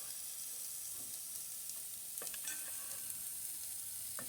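Cabbage slaw and noodles sizzling as they fry in a pan, a steady hiss with a couple of light clicks, one about two seconds in and one near the end.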